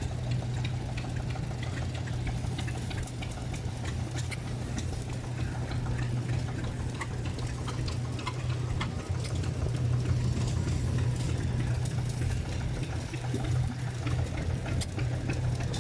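An engine running steadily at idle, a constant low hum with scattered light clicks over it.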